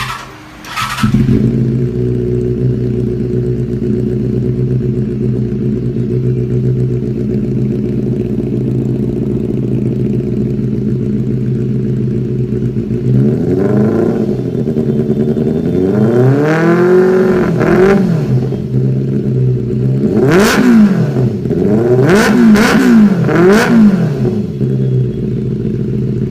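Benelli 600i's inline-four engine starts up about a second in and idles steadily. In the second half it is revved in a series of throttle blips, each rising and falling in pitch: a longer rev and then several quick ones near the end.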